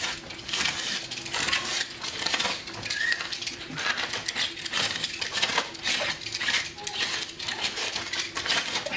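Stanley knife blade slashed repeatedly across a shirt worn over a cut-resistant t-shirt: a rapid series of short, sharp rips as the blade slices through the outer shirt fabric and is stopped by the protective layer beneath.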